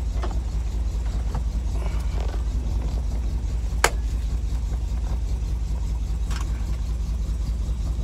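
1963 Chevrolet Impala SS's engine idling steadily, heard from inside the cabin, with a single sharp click about four seconds in.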